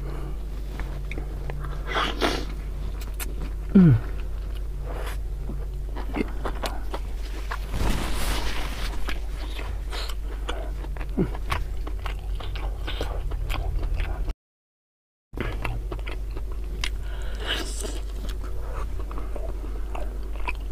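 Close-miked biting and chewing of beef tongue in spicy rica-rica sauce: many small wet mouth clicks and smacks over a steady low hum. The sound drops out completely for about a second, about fourteen seconds in.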